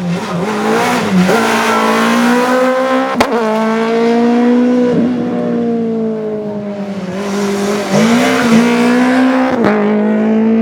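Rally car engine running hard at high revs, its pitch dipping and recovering several times as it shifts gear, with a sharp crack at two of the shifts, about three seconds in and near the end.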